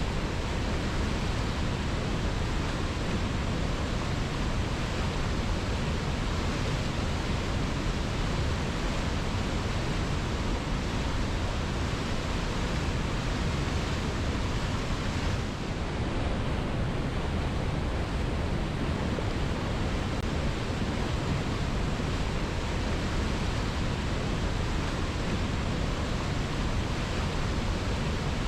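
Waterfall cascading over rocks: a steady, unbroken rush of falling water, dipping slightly for a moment about halfway through.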